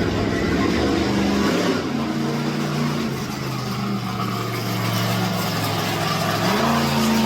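Monster truck engine running loud, its pitch stepping up and down a few times as the throttle changes.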